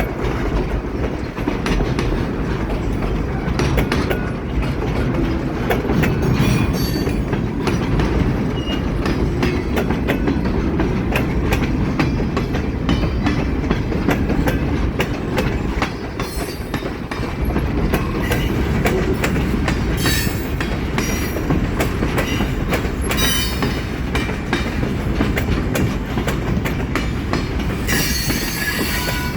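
Train rolling past: a steady, loud rumble with the clickety-clack of wheels over rail joints and brief high-pitched squeals of wheels on the rails, the loudest squeal near the end.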